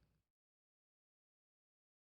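Near silence: a faint cat purr cuts off just after the start, then dead silence.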